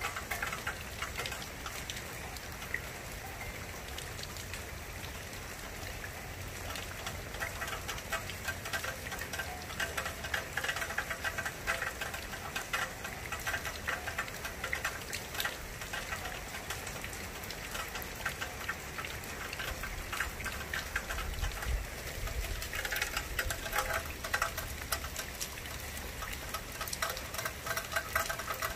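Steady rain falling, with many close drops pattering and ticking on a nearby surface.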